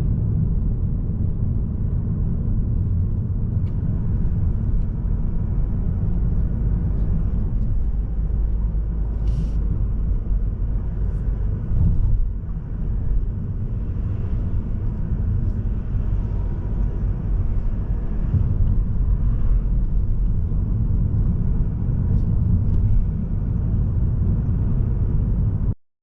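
Road noise from a moving car: a steady low rumble of tyres and drivetrain from a Mazda3 sedan with the 1.8 Skyactiv-D diesel, with a few faint ticks. It cuts off just before the end.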